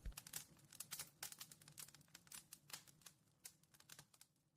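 Wood fire crackling faintly in a fireplace: small irregular clicks, several a second, thinning out near the end.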